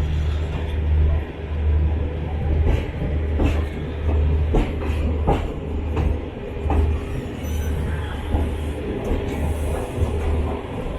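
Diesel generator sets in a train's end-on-generation power car running with a loud, low rumble that swells and eases about once a second. A few sharp clicks come in the middle.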